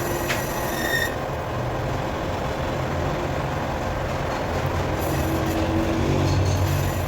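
Heavy machinery running with a steady, noisy grind over a low hum that swells near the end.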